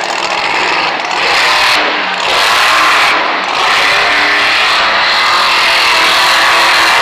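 Monster truck engine running loud at high revs, with brief dips about two and three and a half seconds in, then held steady.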